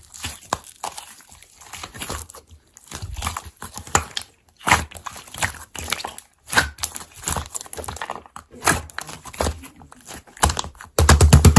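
Irregular crunchy crackling and clicking, in quick clusters with short pauses, the sound of something being pressed, crumpled or broken up by hand.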